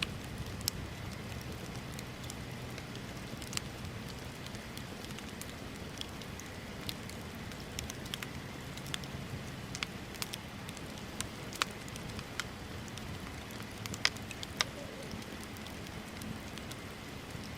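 Wood bonfire crackling: irregular sharp pops and snaps over a steady low rush of the burning fire, with a couple of louder snaps late on.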